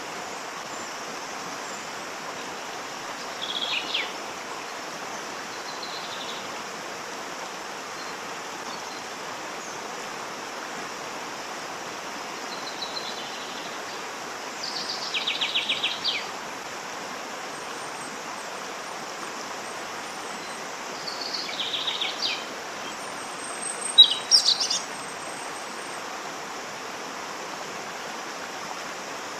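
Steady rush of a waterfall with birds calling over it every few seconds: short high calls and rapid trills, the loudest a sharp call about 24 seconds in.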